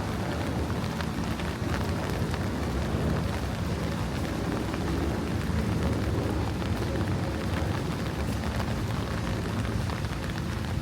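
Steady rain falling, with many small drop ticks over a constant hiss and a low rumble underneath.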